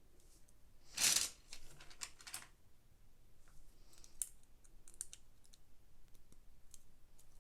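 Plastic Lego pieces being handled and pressed together: a louder clatter about a second in, then scattered small sharp clicks and taps.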